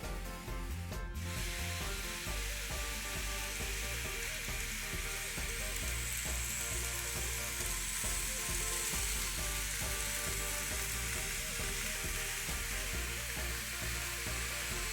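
N gauge model train running along the track: a steady hissing rattle of small wheels on rail that starts about a second in and carries on.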